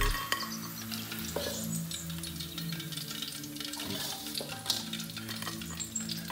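Pork pieces frying in hot oil in a steel wok: a steady sizzle, with a couple of brief scrapes or clinks of the metal ladle against the wok. Soft background music with sustained low notes plays underneath.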